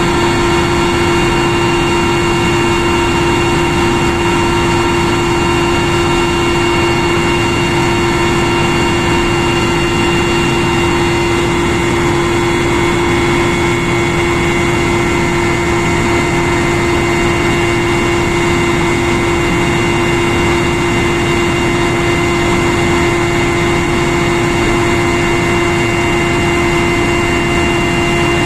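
Military helicopter in cruise flight, heard from inside the cabin: a loud, unchanging rush of noise with several steady whining tones over it, the strongest a low hum.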